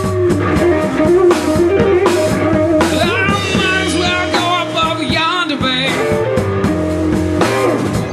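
Blues band playing an instrumental break: a lead guitar with sliding, bent notes over bass and drum kit.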